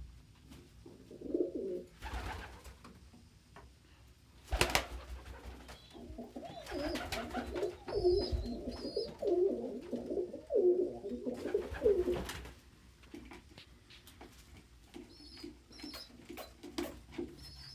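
Domestic pigeons cooing, low repeated coos mostly through the middle, with brief high peeps from the squeakers (young pigeons). A few short sharp knocks or flaps are mixed in.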